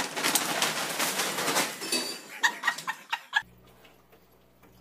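Large paper bag crinkling and rustling as cats scramble in and against it, followed by a few sharp clicks. It cuts off suddenly and gives way to a faint low hum.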